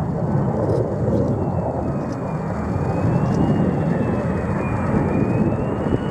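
F-35B Lightning II jet engine running with a steady roar and a thin high whine that drifts slightly up and down in pitch.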